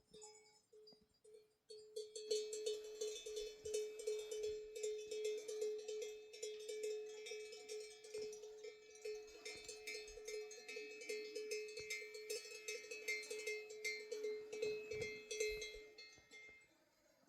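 Bells on a flock of sheep clanking many times a second, several bells together, beginning about two seconds in and fading away near the end.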